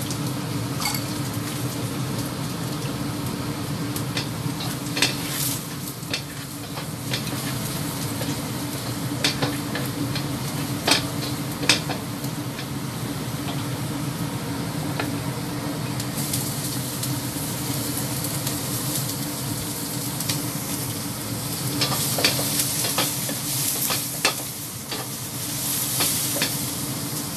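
Chopped garlic sizzling in hot oil in a wok while a spatula stirs it, with sharp clicks and scrapes of the spatula against the pan scattered throughout over a steady low hum.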